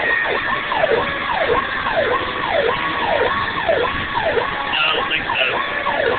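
Fire truck siren running on a call, its pitch sweeping rapidly up and down about twice a second, with a steadier high siren tone held behind it.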